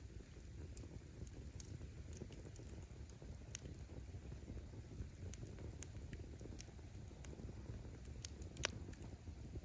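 Wood bonfire crackling: burning firewood snaps and pops at irregular intervals, with one louder pop near the end, over a low steady rumble.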